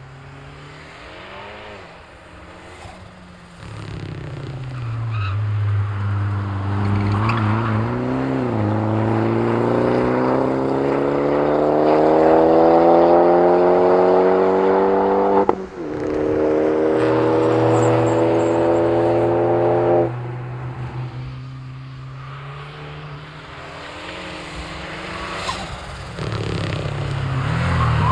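Fiat Panda 100HP's four-cylinder engine, fitted with a big TD04 turbo, pulling hard. Its pitch climbs steadily for about ten seconds, breaks briefly for a gear change, and climbs again. The throttle is then lifted abruptly, the engine runs lower for several seconds, and it picks up again near the end.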